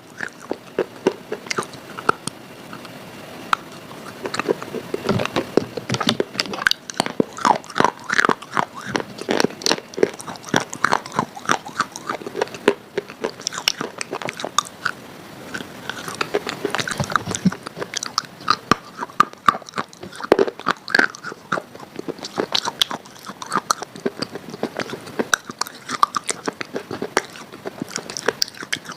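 Close-up biting and chewing of crunchy food: a dense, irregular run of sharp, crackly crunches.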